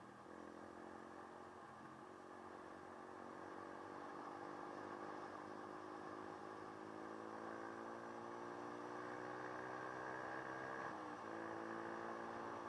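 Dirt bike engine running under way, its pitch climbing slowly and getting louder, then dropping sharply about eleven seconds in before it settles again.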